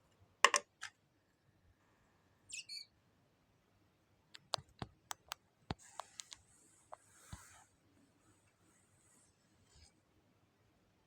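A small bird tapping its beak against window glass: a couple of sharp taps near the start, then a quick run of taps in the middle, with a short high chirp about two and a half seconds in and faint high chirping after the taps.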